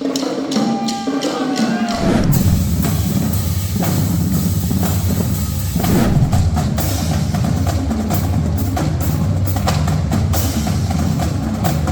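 Percussion music with many quick, sharp clicking strikes and drum hits; a low bass comes in about two seconds in and carries on under the rhythm.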